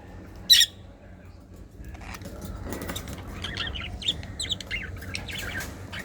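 Small pet parrots (love birds) chirping: one loud, sharp call about half a second in, then a busy run of quick, high chirps over the second half.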